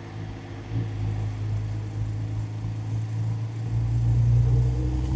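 Tuned Infiniti Q60's engine running steadily at a low, even note, heard through a microphone mounted near the radiator and intake, getting a little louder about four seconds in.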